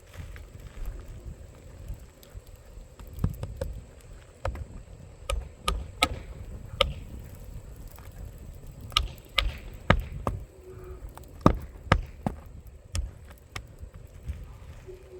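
Irregular sharp taps and knocks from hands-on work on an asphalt shingle roof, about a dozen strikes at uneven spacing, over a low rumble.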